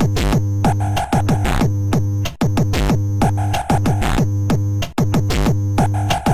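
Electronic techno soundtrack from an Amiga 64k intro: synthesizer bass and chords over a drum-machine beat with regular kick drums, pausing briefly about two and a half seconds and five seconds in.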